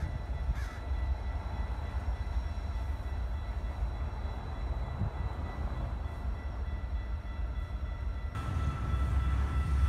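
Diesel locomotives led by a CN SD70ACE rumbling low and steady as they haul an intermodal stack train slowly past. The rumble grows louder in the last second and a half.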